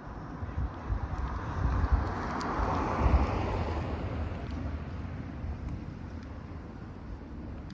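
A car passing by on the street, its noise swelling to a peak about three seconds in and then fading away.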